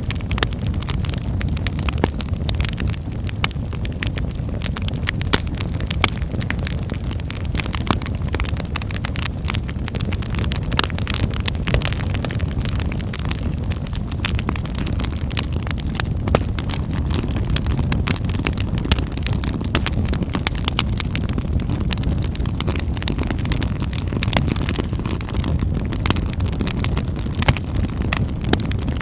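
Wood fire burning in a fireplace: a steady low rumble of flames with frequent small crackles and pops of burning logs.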